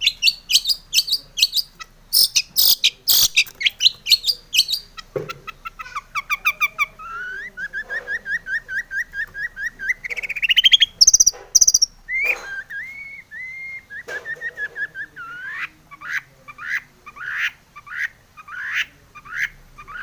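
Long-tailed shrike singing a varied song: fast harsh chattering at first, then runs of quick repeated notes that speed up into a rising trill about ten seconds in, followed by varied whistled phrases and, near the end, a series of sharp calls about two a second.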